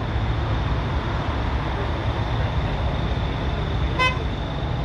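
Steady low rumble of heavy vehicle engines, with one short horn toot about four seconds in.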